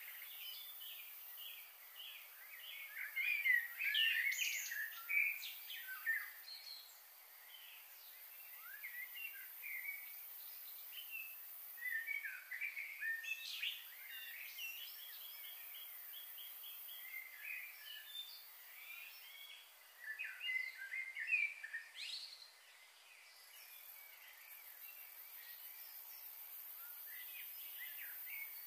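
Small birds chirping and singing in quick, scattered bursts, loudest in the first few seconds and again about twenty seconds in, over a faint steady high hiss.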